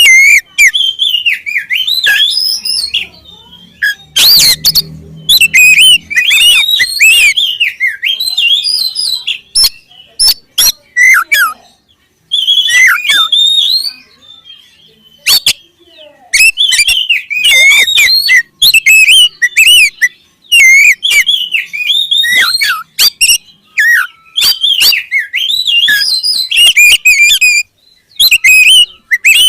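Oriental magpie-robin (kacer) singing loud, rapidly varied phrases of whistles and chatter in bursts with short pauses. About four seconds in, a brief loud noise with a low hum cuts across the song.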